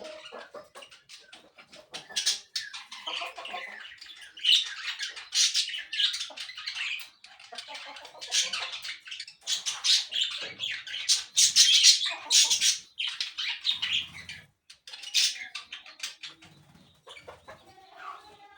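Parakeets chirping and squawking in a dense, irregular run of high-pitched calls, with short pauses between bursts.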